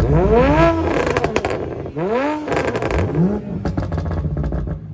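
Turbocharged Toyota Supra engine being blipped hard three times, its pitch sweeping up and dropping back each time, with crackling between the revs.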